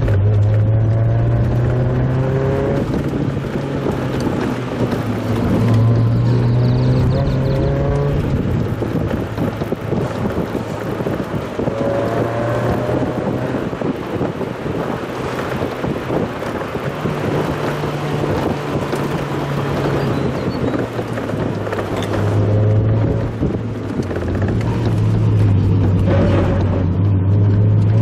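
Mazda Roadster's four-cylinder engine heard from inside the car on a descent, sped up, its note repeatedly rising and falling with revs and gear changes over steady road and wind noise.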